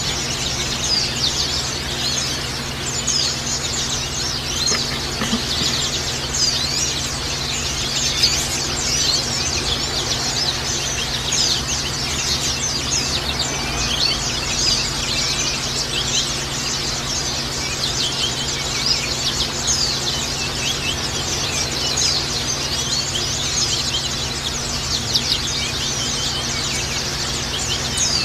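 Several white-eyes (pleci) singing together: a dense, unbroken stream of fast high twittering chirps and trills. A steady low hum runs underneath.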